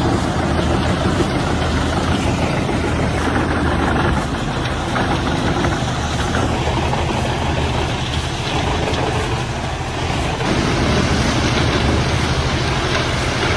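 Heavy diesel machinery running steadily under load, with a dense grinding, crunching noise over the engine note: a large wood chipper chewing through trunk wood. The sound shifts abruptly about ten and a half seconds in.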